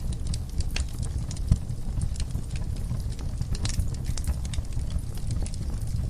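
Wood fire burning in a fireplace: irregular crackles and small pops over a steady low rumble of flames, with one sharper pop about one and a half seconds in.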